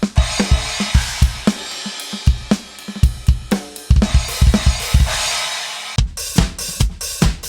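KAT Percussion KT4 electronic drum kit playing a groove of kick and snare strokes under ringing crash cymbals. About six seconds in, the cymbal wash cuts off sharply and a tighter, faster pattern of kick and short cymbal strokes follows.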